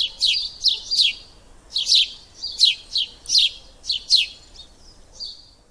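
Birdsong: a series of short, high chirps, each falling quickly in pitch and often coming in pairs, with a thin held whistle between some of them. The chirps fade near the end.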